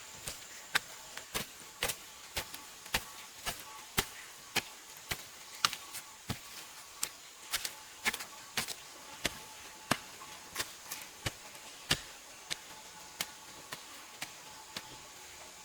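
A hand tool striking repeatedly at a steady pace, sharp strikes about three every two seconds.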